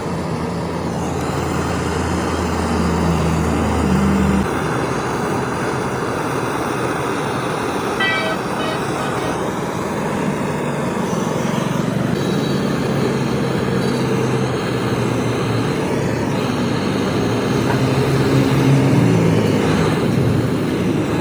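Motor vehicle engines running with road traffic noise, their low hum shifting in pitch now and then. A short run of high beeps, like a horn toot, comes about a third of the way in.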